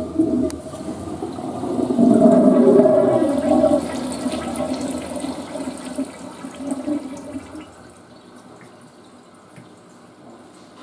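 Western-style toilet flushing: a rush of water that starts suddenly, is loudest about two to four seconds in, then dies away into a faint trickle.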